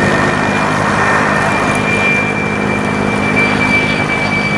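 An engine running steadily: a low, even drone with a thin high whine over a haze of noise.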